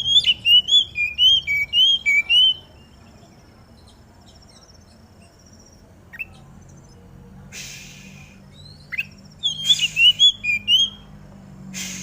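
Oriental magpie-robin singing: a rapid run of loud, repeated whistled notes at the start and another near the end, with a thin high trill under the first run and a few short hissy noises in between.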